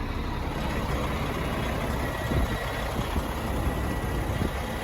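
Peterbilt 579 truck's diesel engine idling steadily, a low rumble with a constant hiss.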